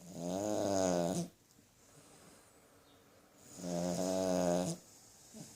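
Pudgy white poodle snoring in its sleep: two long, pitched snores, each about a second long, the second coming about three and a half seconds after the first.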